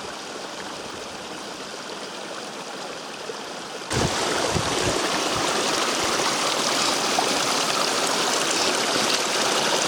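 A small mountain brook of snowmelt water running over stones. About four seconds in the water sound gets suddenly louder and fuller, with a few low bumps.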